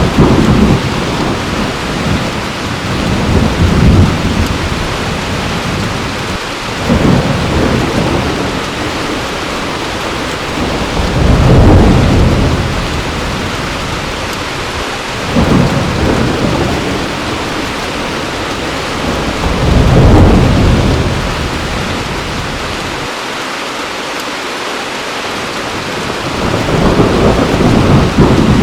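Heavy rain falling steadily, with rolls of thunder rumbling in deep swells every few seconds.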